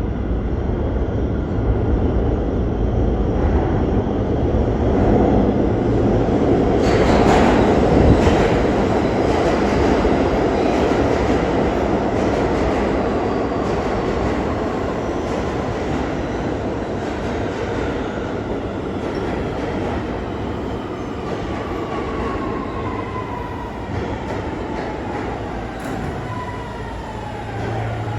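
New York City subway train in an underground station: a loud, steady rumble of wheels on rail that swells to a peak about seven seconds in with a sharp clatter, then slowly eases off while a motor whine falls in pitch over the last ten seconds.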